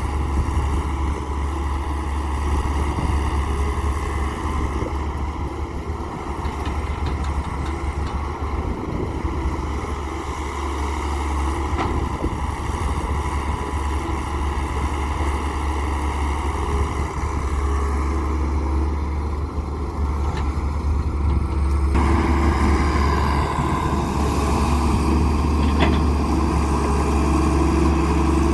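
Heavy diesel engine of a wheeled excavator running steadily as it works, loading mud into a tipper truck. About 22 seconds in the sound changes abruptly and grows louder.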